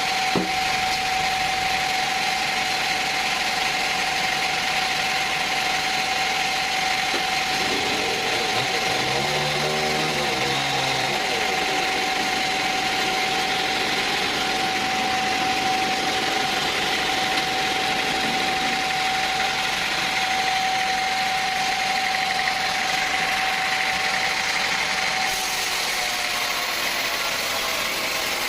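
Sawmill machinery running steadily, an engine with a constant high whine over a broad mechanical hiss; the whine sinks a little in pitch near the end.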